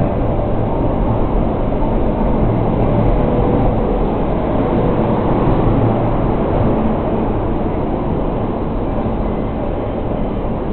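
Keihin-Tohoku line electric commuter train passing along the platform without stopping, with a steady, loud rumble of wheels on the rails.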